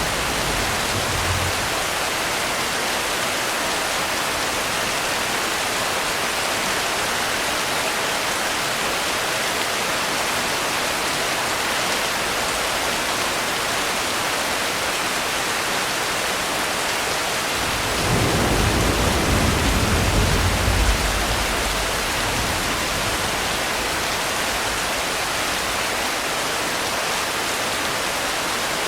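Steady heavy rain, an even hiss of falling water, with a low rumble of thunder that swells about two-thirds of the way through and fades after some three seconds.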